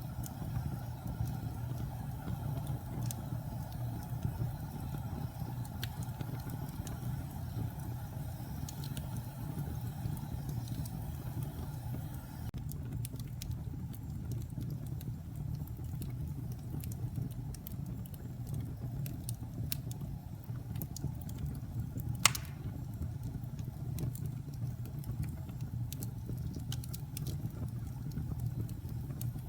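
Wood fire burning in a fireplace: a steady low rumble of flames with scattered crackles and small pops, and one loud sharp pop about two-thirds of the way through.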